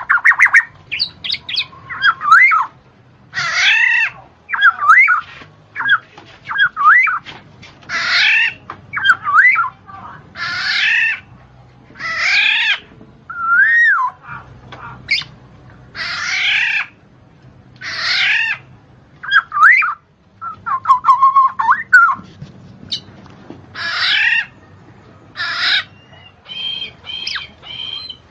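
A bird calling over and over, mixing harsh squawks with short whistled and chirping notes that glide up and down, about one call every one to two seconds.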